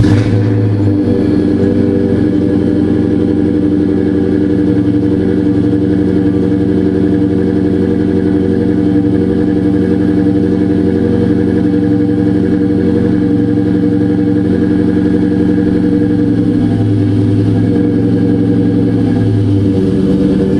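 Supercharged 2004 Mustang SVT Cobra V8 exhaust through Flowmaster Super 40 mufflers, idling steadily just after a cold start, with small wavers in the idle near the end.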